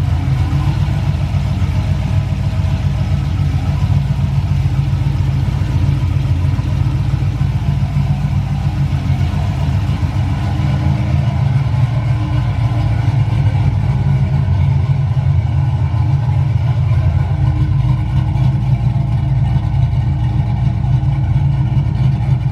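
V8 car engine idling steadily after a cold start, its exhaust a loud, even low rumble.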